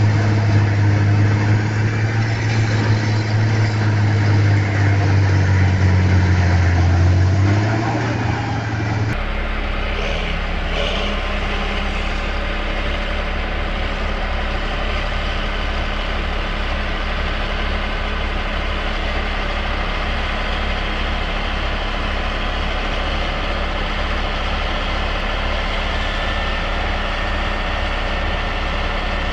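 Heavy vehicle engines running. One engine holds a loud, steady note that drops in pitch about eight seconds in; then, after a sudden change, a different engine runs steadily with a fast low pulse.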